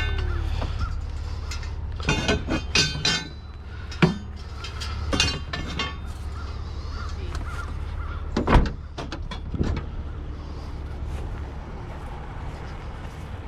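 Heavy scrap items being loaded into a car trunk, with knocks and clanks and one loud thud about eight and a half seconds in, over a low steady hum. A run of short, harsh, crow-like calls comes about two seconds in, and again briefly near the middle.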